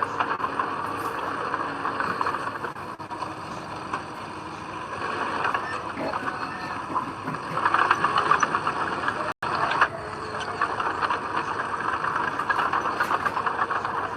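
Heavy diesel earthmoving machinery running steadily, with a brief dropout about nine seconds in.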